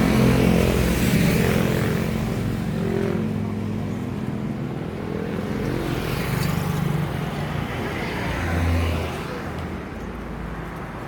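A motor vehicle's engine running steadily, rising briefly in level a little after eight seconds in.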